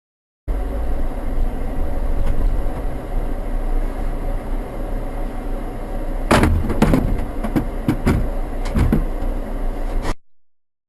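Car driving with a steady low engine and road rumble, then a sudden loud impact about six seconds in, followed by several more bangs and knocks over the next three seconds: a car crash.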